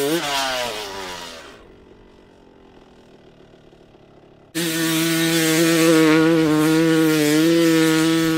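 Small pit bike engine with its pitch falling as it fades away, then a low lull. About halfway through a small engine cuts in loud, held at a steady high rev.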